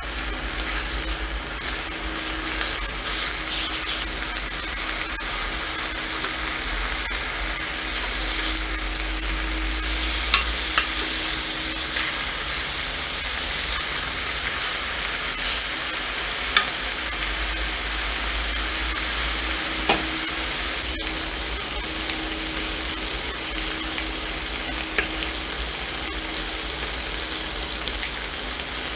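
Pork neck sizzling in hot fat as it cooks, a steady hiss with a few sharp pops of spitting fat; the sizzle gets somewhat quieter about two-thirds of the way through.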